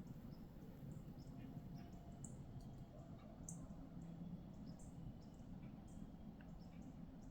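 Faint, short, high chirps of small birds at irregular intervals, over a steady low rumble.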